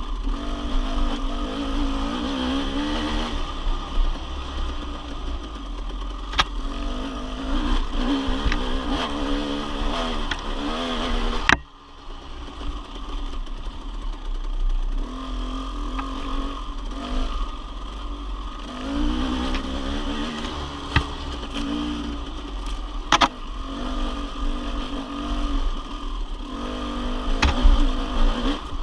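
Dirt bike engine revving up and down as it is ridden, with a few sharp knocks and a brief dropout about twelve seconds in.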